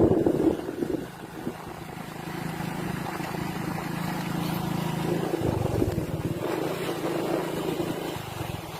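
A small engine running steadily with a low hum, dipping briefly about five and a half seconds in before it steadies again.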